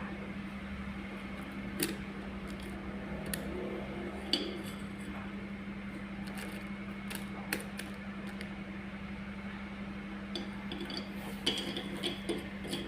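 Small stones clicking and clinking now and then as they are set down one by one, over a steady low hum.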